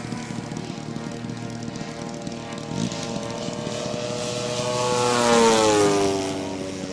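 Giant-scale model La-7's 3W-150 petrol engine and propeller running steadily in flight. The plane grows louder as it passes by about five seconds in, and the pitch drops as it moves away.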